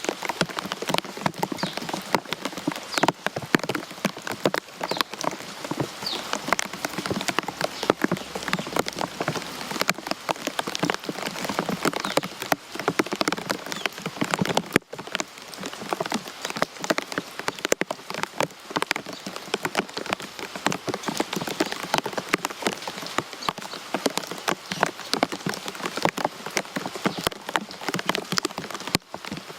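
Rain falling steadily, with many separate drops striking close by. There is a momentary break in the sound about halfway through.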